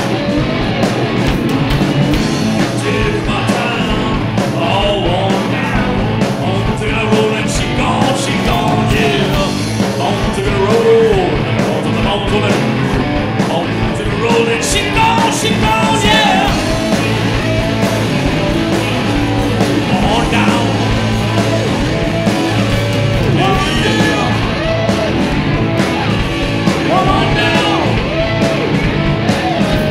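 Live rock band playing a song, a singer singing over electric guitar, bass and drums.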